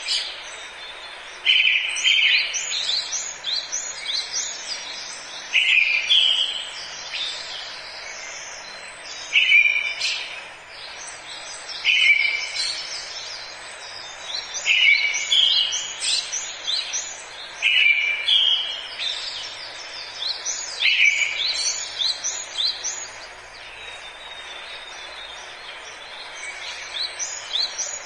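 Wild birds singing: a song phrase about every three seconds, each opening with a loud note and running into a quick cascade of higher notes, over a steady background hiss.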